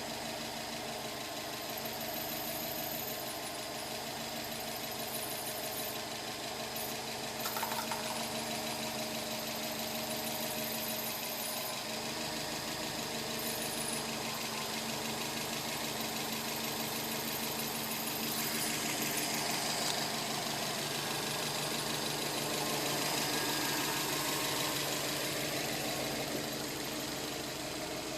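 Subaru WRX turbocharged flat-four engine idling steadily, hot from hard driving, making an unusual noise the owner calls strange, with a brief sharp sound about seven and a half seconds in.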